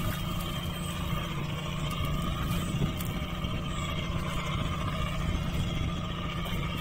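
An engine running steadily at a constant speed, an even hum that neither rises nor falls.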